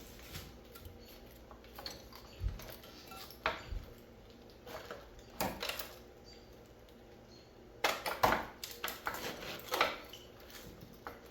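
Metal parts of a mini split air conditioner being handled during a tear-down: scattered light metallic clinks and knocks, with a cluster of sharper clanks about eight seconds in.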